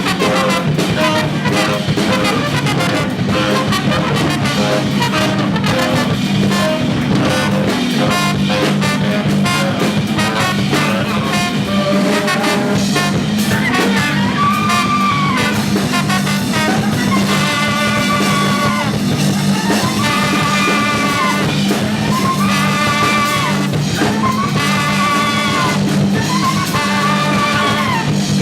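Free jazz band playing live: fast, dense drumming over a low held bass drone. From about halfway, a horn repeats a short rising-and-falling wail about every two seconds.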